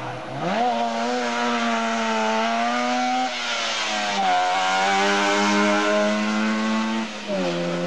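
Trabant rally car's two-stroke twin-cylinder engine at full throttle, climbing steadily in pitch. The note drops briefly at two upshifts, about three seconds in and again near the end.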